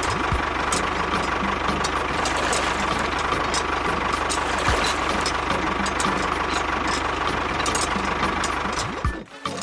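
An engine idling steadily with a fast, even knock, cutting off abruptly about nine seconds in.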